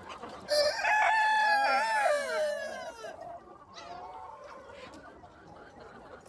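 A rooster crowing once: a long call of about two and a half seconds that starts half a second in and falls away at the end. Fainter chicken calls follow.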